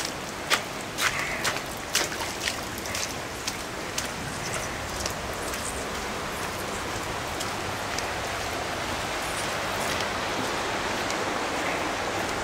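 Heavy rain falling as a steady hiss, with a few sharp ticks in the first few seconds.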